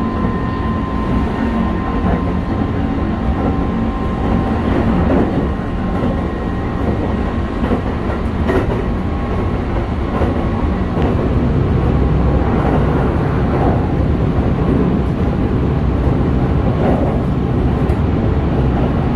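Cabin noise inside a Kintetsu 5211-series express train as it runs: a steady rumble of wheels on rail, with a few clicks over rail joints.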